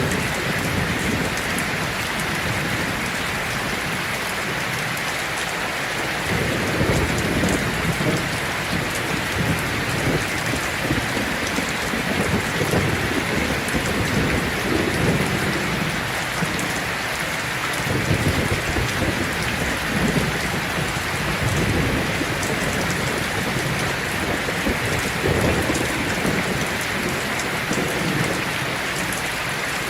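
Heavy rain falling steadily on a tin roof, a dense, even hiss, with low thunder rumbling in and out several times.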